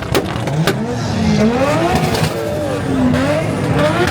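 Car engine revving, its pitch rising and falling again and again as the throttle is worked, with a few sharp pops at the very start.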